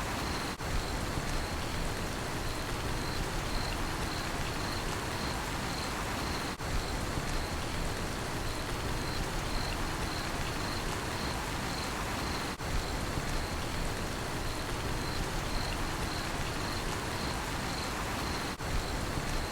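Steady rainfall with a cricket chirping in a fast, even pulse over it. The sound dips briefly about every six seconds.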